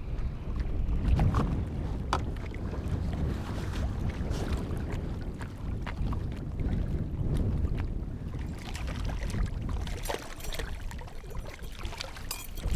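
Water lapping and splashing around a kayak hull with wind rumbling on the microphone, with scattered small clicks and knocks and a cluster of them near the end.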